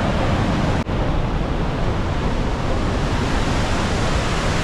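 Rhine Falls' heavy rush of falling water, a loud, steady noise with a momentary dropout just under a second in.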